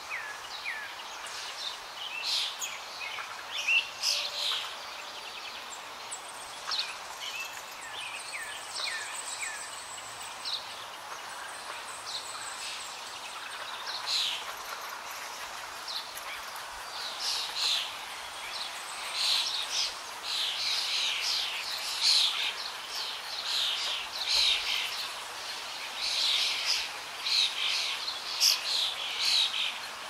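Many small birds chirping and singing in short, quick calls that grow busier in the second half, over a steady faint hiss.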